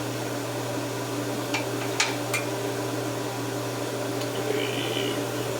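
Steady kitchen appliance hum, with three light clicks about two seconds in.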